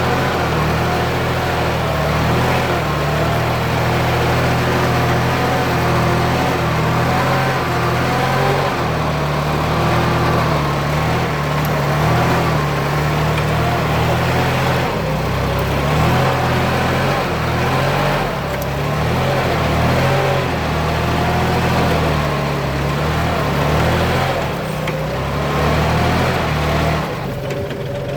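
Kubota farm tractor's diesel engine running steadily under load while pulling a plough through a paddy field, with a wavering whine over the engine's low drone.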